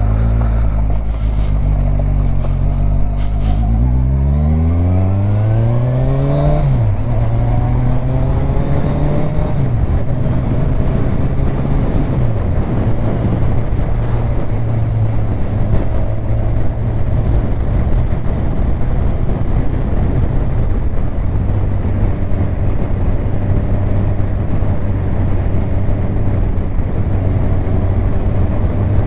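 Kawasaki Ninja 1000's inline-four engine accelerating through the gears: the pitch rises, drops sharply at upshifts about 7 and 10 seconds in, then holds steady at cruising speed.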